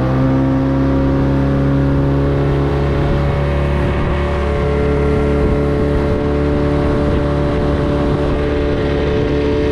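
Mercury 9.8 two-stroke outboard motor running under way at a steady high speed, its pitch rising slightly near the start and then holding even.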